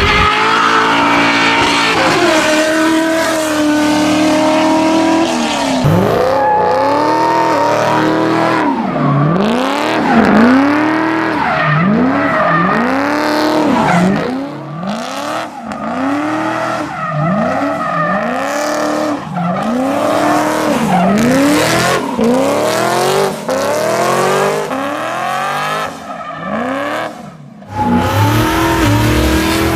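American V8 muscle car doing donuts, its tyres squealing. For the first few seconds the engine holds a steady high note. After that the revs swing up and down over and over, about once a second, until a brief drop near the end.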